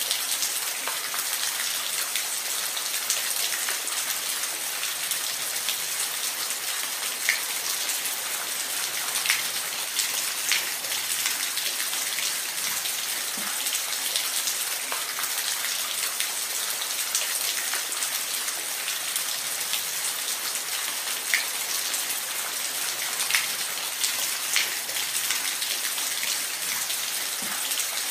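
Steady rain: a dense, even hiss with occasional louder drops ticking through it.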